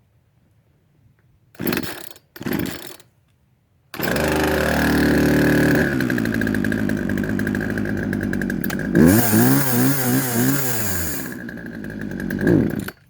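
Poulan Wild Thing two-stroke chainsaw being pull-started on choke: two short bursts as the cord is pulled, then the engine catches about four seconds in and runs. It revs up and down a couple of times, then cuts out abruptly near the end.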